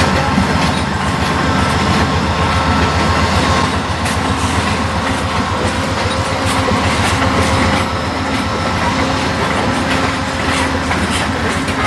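Amtrak GE P42DC diesel locomotive running with a steady low engine drone, with scattered clicks and rattles of rail equipment through the second half.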